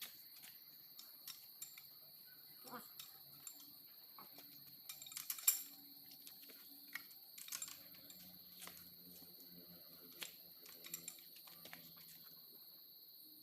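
Faint, irregular small metallic clicks and taps, with a denser cluster about five seconds in: hand tools and small engine parts being handled.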